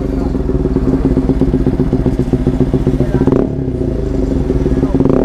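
Bajaj Pulsar NS200's single-cylinder engine running through a full-system Akrapovic exhaust with the dB killer removed, very loud. It idles with a quick blip of the throttle about three seconds in and another near the end.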